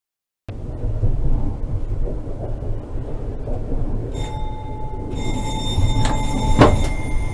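Low rumbling running noise of a moving vehicle, with a steady high tone joining about four seconds in and two sharp knocks near the end.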